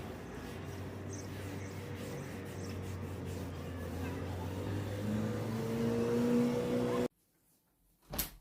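A motor running steadily with a hum and a rushing noise; about five seconds in, higher tones join and rise slightly in pitch. The sound cuts off abruptly about seven seconds in, and a single sharp click follows near the end.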